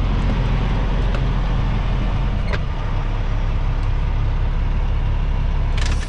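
Kenworth T660 semi truck's diesel engine idling steadily, heard from inside the cab, with a few light clicks and a sharp clatter near the end.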